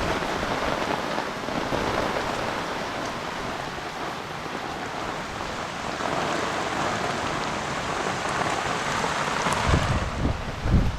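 Heavy rain falling on a fishpond's water surface, a steady dense hiss. Near the end, low rumbling buffets of wind hit the microphone.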